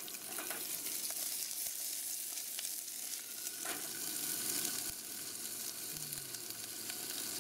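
Bacon, onion and eringi mushroom sizzling in olive oil in a small metal cookpot on a gas camp stove: a steady frying hiss, with a few light clicks of tongs stirring against the pot.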